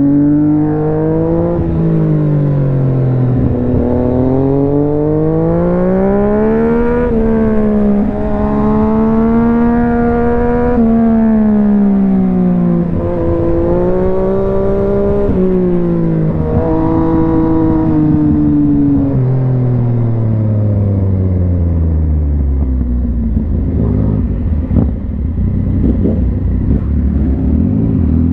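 Yamaha MT-09's inline three-cylinder engine and exhaust, pulling up through the revs again and again, with the pitch dropping between pulls as it changes gear. It then winds down to a low, steady note for the last few seconds.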